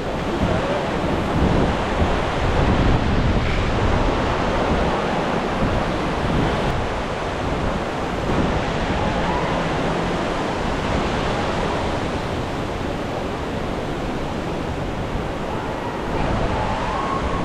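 Steady rushing roar of a large waterfall, with wind buffeting the microphone.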